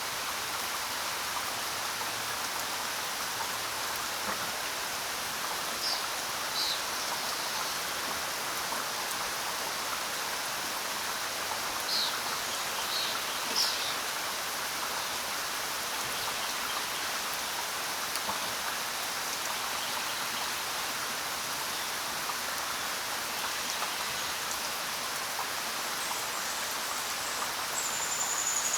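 Steady rain falling, with a few short high bird chirps scattered through and a thin high whistle near the end.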